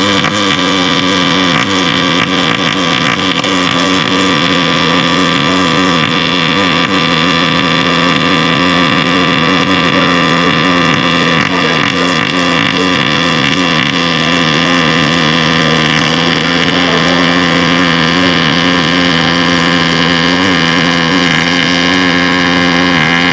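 Welding arc running continuously, a loud steady buzz with a pitched hum over a crackling hiss.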